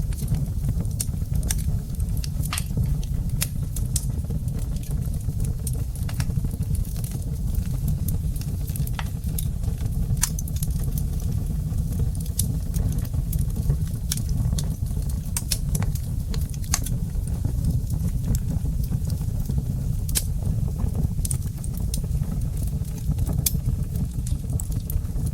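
Wood fire burning in a fireplace, crackling: irregular sharp pops and snaps, several a second, over a steady low rumble.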